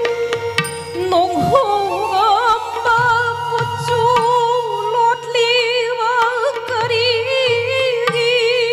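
Live Manipuri classical dance music: an ornamented melody with wavering pitch over a steady held drone, with low drum strokes underneath.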